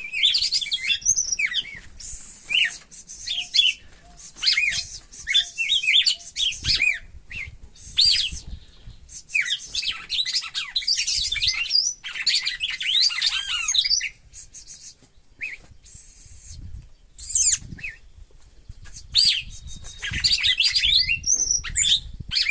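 Red-cowled cardinal (galo-de-campina) singing lively song phrases of quick, sliding high whistled notes, repeated several times with short pauses between them.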